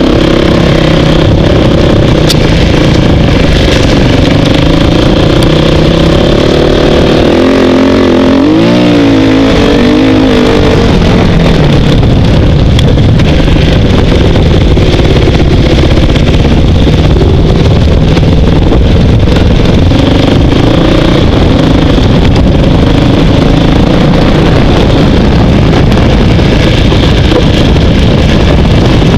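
Dirt bike engine running loud and close while riding a trail, the pitch rising and falling with the throttle, with a quick rev-up and drop about nine seconds in.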